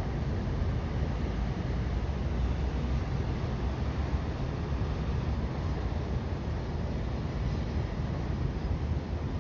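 Steady low rumbling outdoor ambience, even throughout, with no separate events.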